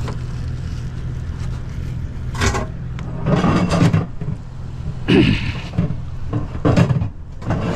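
A microwave oven being handled and set down, with several knocks and scrapes, the loudest about halfway through, over a steady low hum.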